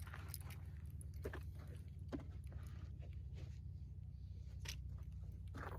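Faint handling noise: scattered small clicks and crunches over a steady low hum.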